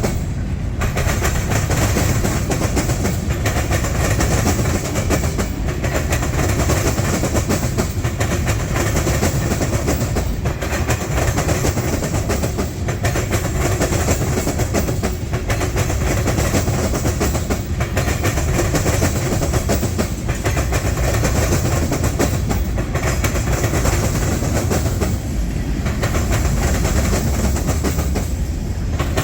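Freight train cars rolling past, wheels clicking over the rail joints, over a steady rumble that dips briefly about every two and a half seconds.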